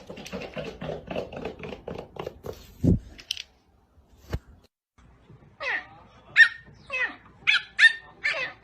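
A pet animal's high-pitched cries, about six in quick succession starting just past halfway, each sliding in pitch. Before them comes a quick patter of small scratchy noises, ending in a knock near the three-second mark.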